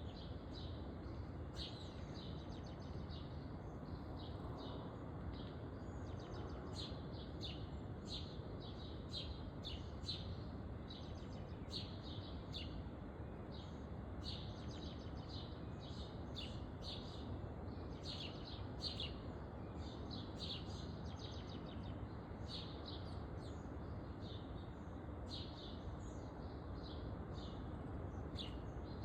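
Many small birds chirping, short high chirps crowding one after another throughout, over a steady low background noise.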